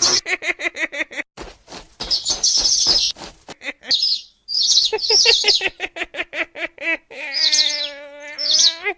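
A bird chirping and tweeting in many short, high calls, with a longer, lower pitched call lasting about two seconds near the end.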